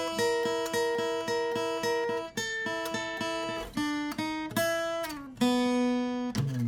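Acoustic guitar picked in a steady pattern of single notes, about two a second, moving through a few chord changes as the opening of a song.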